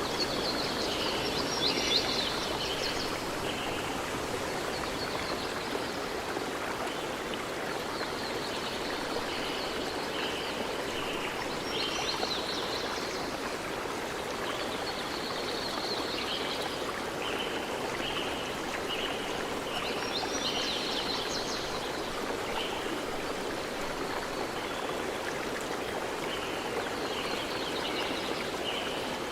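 A stream running steadily, with short high chirping calls repeating every few seconds over the water.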